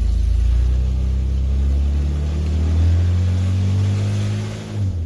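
1995 Ford F-150's V8 running on open exhaust manifolds with no pipes fitted, ridiculously loud. The engine note climbs slowly as the truck accelerates, then drops off suddenly just before the end.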